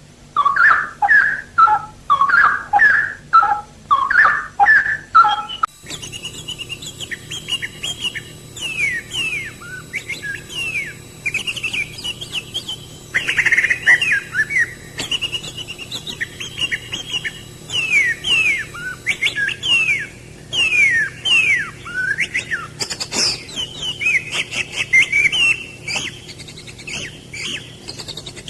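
Songbirds calling. First comes a short call repeated about twice a second. About six seconds in the sound changes abruptly to a different bird giving quick, falling whistles over and over.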